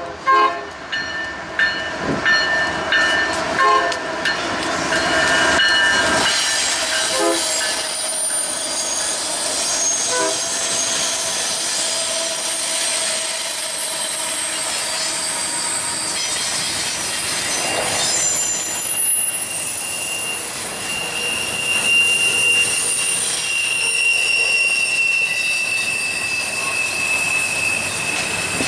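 Diesel freight locomotives sounding the horn in a series of blasts as they approach, then a long double-stack container train rolling past. Steady wheel and rail noise with a high-pitched wheel squeal, strongest in the second half.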